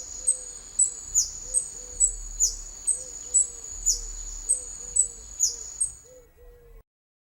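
Hummingbird calling: a run of high, sharp chips with quick falling notes about twice a second over a steady high-pitched whine, stopping abruptly near the end.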